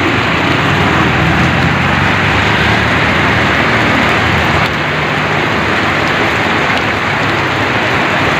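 Heavy rain pouring steadily, with a low hum underneath that is stronger in the first half.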